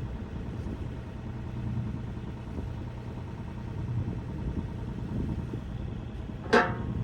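John Deere 27D mini excavator's diesel engine running steadily at low speed, with one sharp metallic clank that rings briefly near the end.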